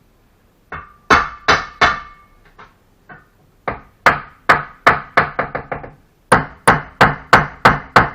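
Hammer or trowel striking brick: a run of sharp taps, about three a second, with a short pause about two seconds in.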